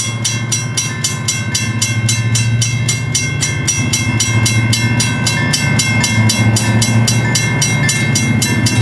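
EMD GP40-2LW diesel locomotive approaching, its engine a low rumble that grows slightly louder, under a bell ringing fast and evenly, about five strikes a second.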